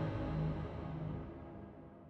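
Yamaha synthesizer playing a preset audition from its analog outputs: sustained low notes with rich overtones, fading steadily away to the end of the phrase.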